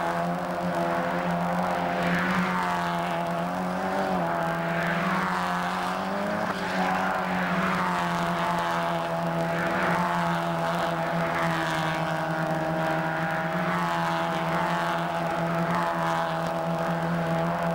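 Mazda MX-5 race cars' engines running hard: a steady engine drone throughout, with higher engine notes rising and falling every second or two as cars rev and pass.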